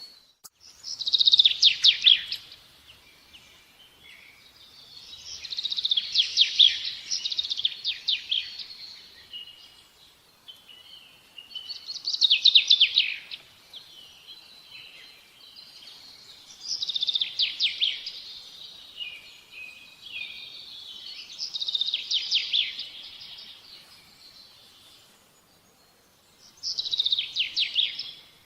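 A bird singing repeated high-pitched phrases of rapid chirping notes, one phrase about every five seconds, over faint background noise.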